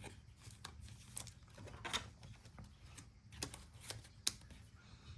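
Trading cards being handled and flipped through one by one: light, irregular clicks and rustles of card stock sliding against card stock.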